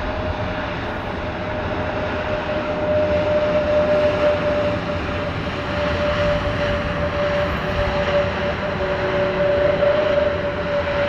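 Airbus A320neo jet engines (Pratt & Whitney PW1100G geared turbofans) running, a steady loud rush with a steady tone that sinks slightly.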